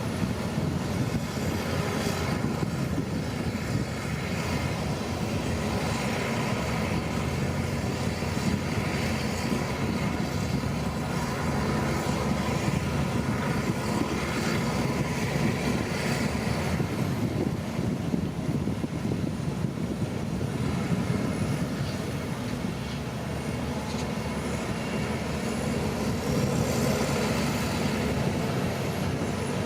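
Shantui crawler bulldozer's diesel engine running steadily under load, with a dense rattle over the low engine hum.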